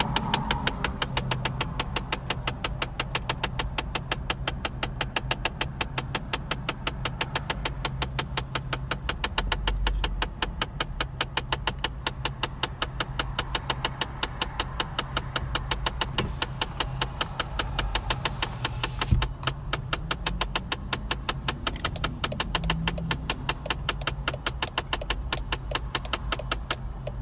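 Fast, even clicking from inside the steering column behind the gauge panel of a 2009 Dodge Journey, several clicks a second, over a steady low hum. The clicking is a fault that comes on with the vehicle standing still and the wheel not being turned. A single louder knock comes about two-thirds of the way through.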